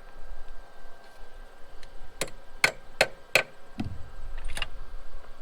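Four quick hammer taps about half a second apart, followed by a duller knock.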